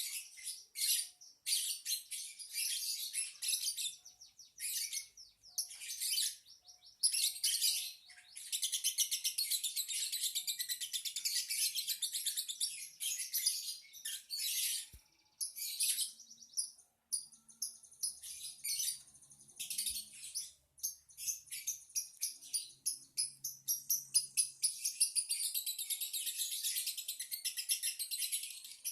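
Lovebird chattering: long runs of rapid, high-pitched twittering broken by short pauses.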